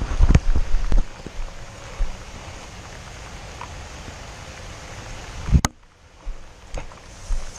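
Steady rain and wind noise on the microphone, with low thumps in the first second and a sharp knock a little over halfway, after which the sound drops quieter.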